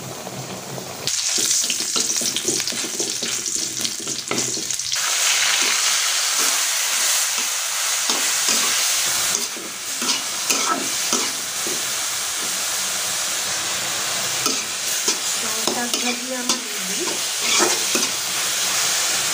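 Leafy greens frying in oil in a wok, a steady sizzle with a spatula stirring and scraping against the pan. The sizzle comes in abruptly about a second in and grows louder about five seconds in, with scattered clicks of the spatula.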